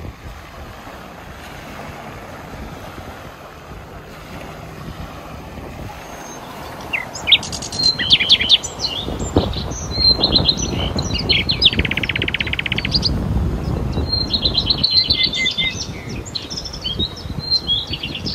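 Small birds chirping and trilling from about seven seconds in, including a fast buzzy trill, over a low rumble of wind on the microphone.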